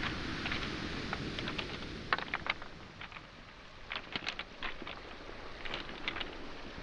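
Footsteps clacking on beach pebbles and small boulders: short clusters of stone-on-stone clicks about once a second. Behind them is the low wash of waves on the shoreline, which eases after about two seconds.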